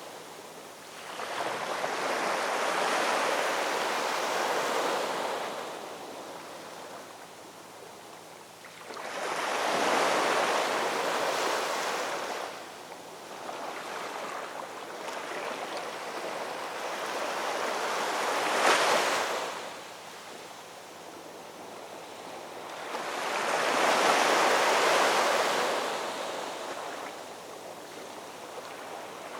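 Ocean waves breaking and washing up the shore, swelling and fading four times, every six to eight seconds, with one sharper crash about two-thirds of the way through.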